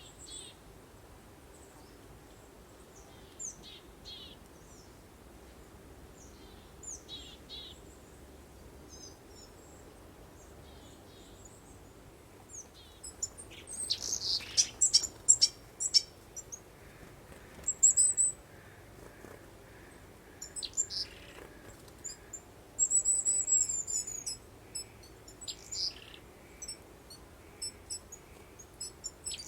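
Small songbirds singing: scattered high chirps and short trills, busiest about halfway through and again near the end, over a faint steady breeze hiss.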